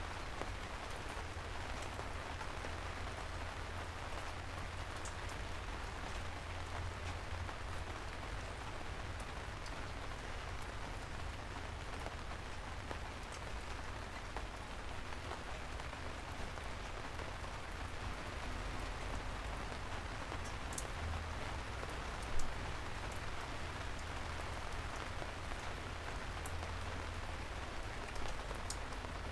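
Steady rain falling, an even hiss with individual drops ticking through it. One brief louder knock about three-quarters of the way through.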